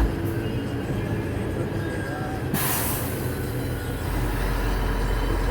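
Scania P124 straight-six diesel running steadily, heard from inside the cab, its drone getting louder about four seconds in. About two and a half seconds in comes a short sharp hiss of compressed air blowing off from the truck's air-brake system.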